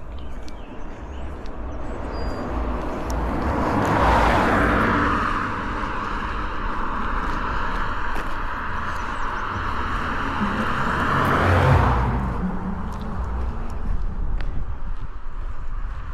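A car passing on the paved road: tyre and road noise builds about four seconds in, stays loud for several seconds and fades away near the twelve-second mark.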